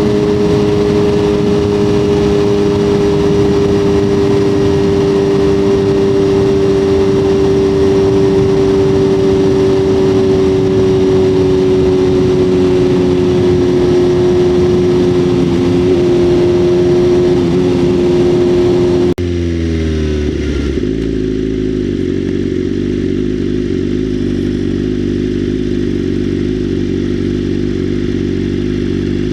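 Motorcycle engine running at a steady cruise under loud wind rush, its pitch sinking slowly. About two-thirds of the way through, the sound changes abruptly to a lower, unsteady engine note with far less wind, as at low speed.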